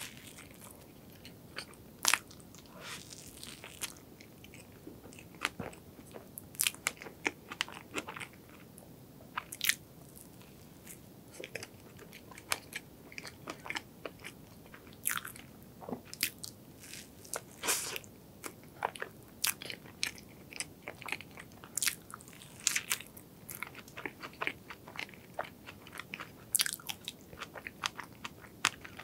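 Close-miked chewing and biting of a soft cream-filled bun: irregular wet mouth clicks and smacks, some sharper and louder than others.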